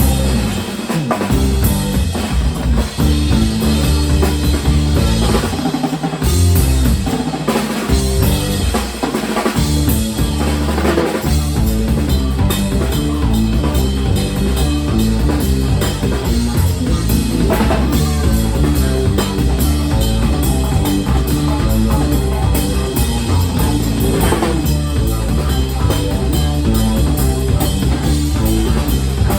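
Band music with a prominent drum kit and a stepping bass line, played loud and without a break.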